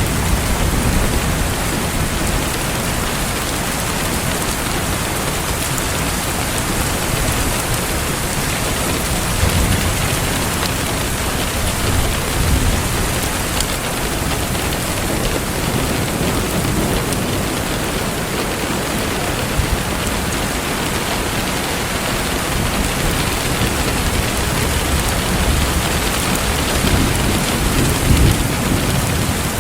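Steady rain falling in a dense, even hiss, with low rumbles swelling up a few times, the strongest near the end.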